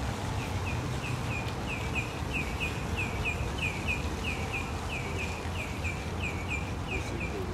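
A bird chirping over and over, about four short downward-slurred chirps a second, over a steady low rumble of outdoor city noise.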